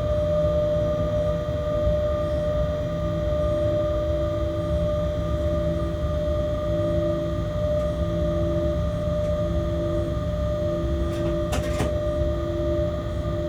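Freight locomotive cab noise while the train runs: a steady low rumble under several steady whining tones, one of them cutting in and out every second or so. A short click comes about eleven and a half seconds in.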